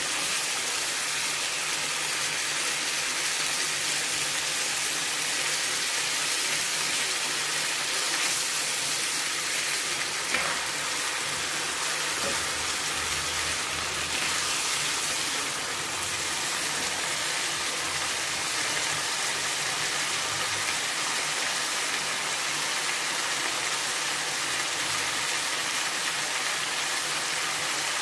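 Chicken cubes sizzling steadily as they fry in oil in a non-stick frying pan.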